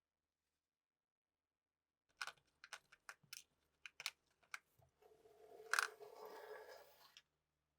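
Workshop handling sounds: a run of light clicks and knocks, then about two seconds of rubbing or scraping with one sharper click in the middle.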